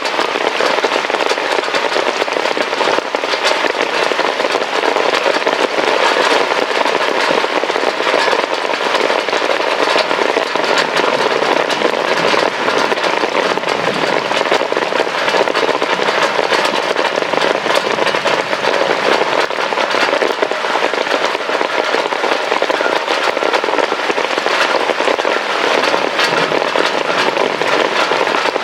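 Heavy rain falling steadily: a dense, unbroken patter of countless drops striking a hard surface.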